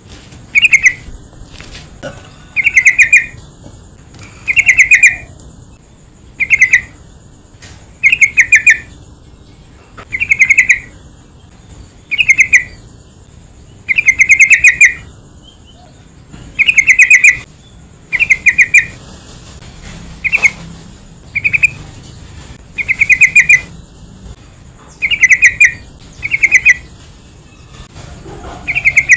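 Yellow-vented bulbul (trucukan) calling: short, loud, bubbling chirped phrases repeated about every two seconds, the kind of call played as a lure to set other trucukan singing.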